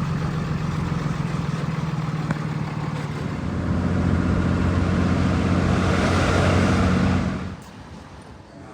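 A motor vehicle driving: a steady engine hum with road and wind noise that grows louder about halfway through, then cuts off abruptly near the end.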